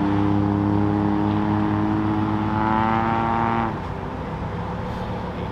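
Lamborghini Huracán STO's V10 engine running at low revs as the car rolls slowly, a steady drone whose pitch climbs slightly before it stops abruptly a little before four seconds in. After that only a quieter background hum remains.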